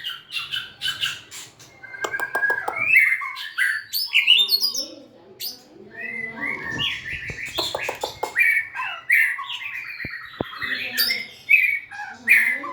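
White-rumped shama singing a fast, varied song of whistled notes, rising and falling glides, and rapid clicking rattles, with barely a pause.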